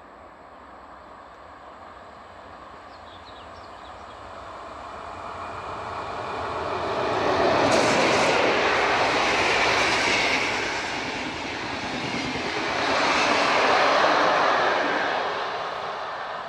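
PKP Intercity passenger train hauled by an EP09 electric locomotive passing by: a rumble that grows louder as it approaches, the loud rolling noise of the coaches' wheels on the rails through the middle, then fading as the rear of the train draws away.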